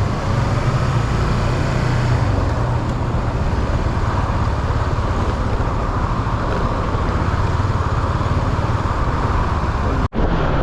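Steady road-vehicle and traffic noise from driving off from a petrol station, a continuous rumble and road hiss. The sound drops out very briefly about ten seconds in.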